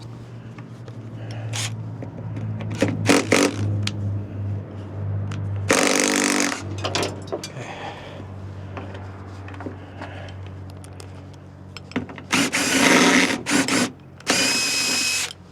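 A power tool runs in three short bursts of about a second each, one about six seconds in and two near the end, with a few knocks of tool work before them, over a steady low hum.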